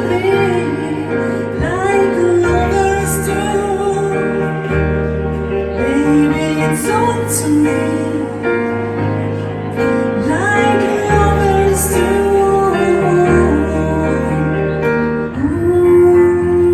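A woman singing with acoustic piano accompaniment: sustained piano chords change every few seconds under a slow, gliding vocal line.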